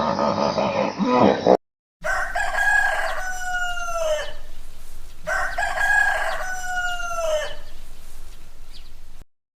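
A rooster crowing twice, each crow a long call that drops in pitch at its end, about two seconds apart. Before it, another animal's sound cuts off abruptly about a second and a half in.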